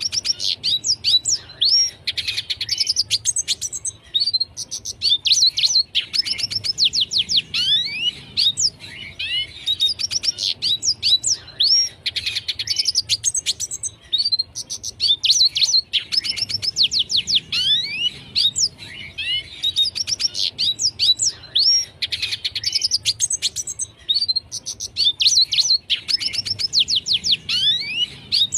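Red siskin singing steadily: rapid twittering phrases of high chirps and quick downward-sliding notes, coming in bouts every couple of seconds with short gaps between.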